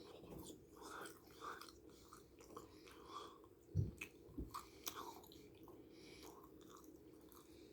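Faint chewing of a gummy candy sushi piece, a gummy fish on a marshmallow base, with soft wet mouth sounds and a couple of short low knocks partway through.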